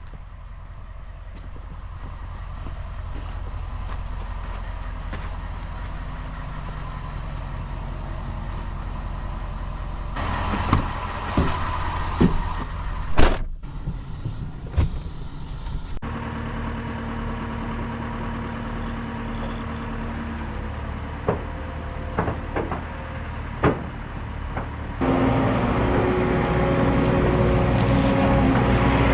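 Heavy machine engine, most likely the JCB teleskid skid steer's diesel, running steadily, with scattered sharp knocks and clanks. The engine sound shifts abruptly about ten, sixteen and twenty-five seconds in, and is loudest over the last few seconds.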